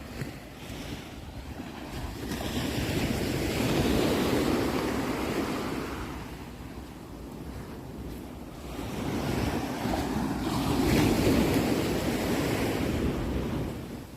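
Sea waves washing in, two swells in turn: each builds to a peak and then eases off.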